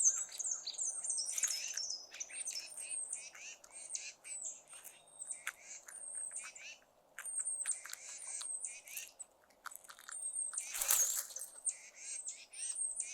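Small songbirds chirping busily, with many high, thin, quickly repeated notes that often slide downward. A brief louder burst comes about eleven seconds in.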